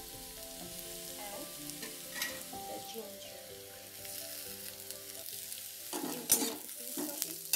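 Chopped onions and garlic sizzling steadily in hot oil in a steel kadai, with a metal spatula scraping and clinking against the pan as they are stirred; the sharpest clink comes about six seconds in.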